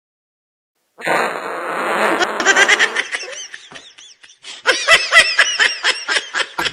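High-pitched cartoon laughter, fast repeated giggling syllables, after a second of silence and a brief rush of noise. It pauses briefly midway, then breaks out again.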